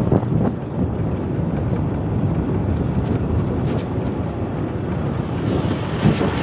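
Steady wind rushing over the microphone, mixed with the running and road noise of a moving motorbike.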